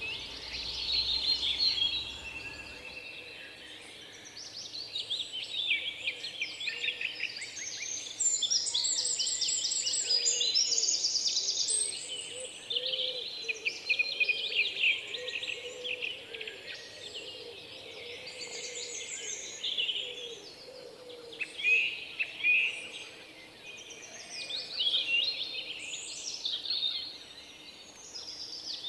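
Several songbirds singing and calling over one another, a mix of quick trills, chirps and short warbled phrases.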